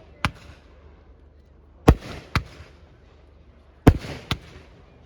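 Fireworks going off: loud, sharp bangs about every two seconds, each followed a moment later by a fainter second bang.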